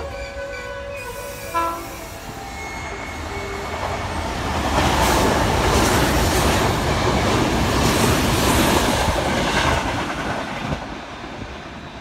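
Sanyo Electric Railway train running past the platform, its wheels clacking over the rail joints, loudest from about 4 to 10 seconds in and then fading. A short horn blast sounds about a second and a half in.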